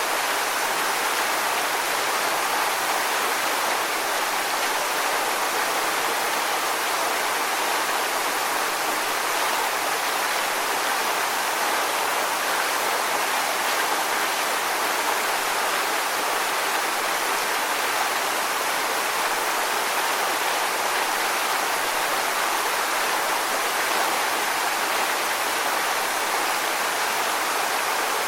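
Steady rushing water noise, even in level throughout with no surges, mostly hiss with little bass.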